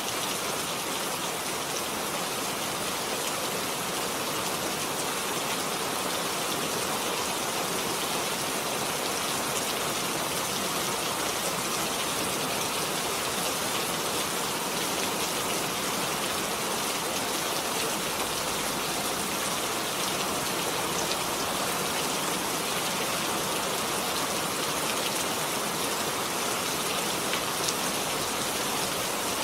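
Steady, even rainfall, with fine drops pattering on a surface.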